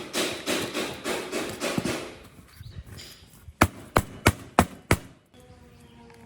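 Hand tool work on a part: rhythmic rubbing or scraping strokes, about three a second, fading out, then five sharp knocks about three a second like hammer taps. Steady tones of background music come in near the end.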